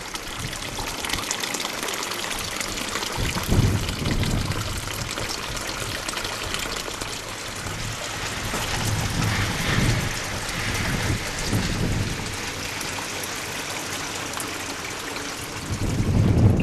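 Steady hiss of water, with a few low rumbles of wind on the microphone.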